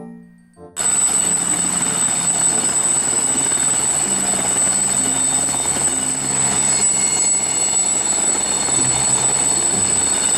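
Helicopter sound: a steady, loud whir of rotor and engine with a high-pitched whine over it. It starts suddenly a little under a second in.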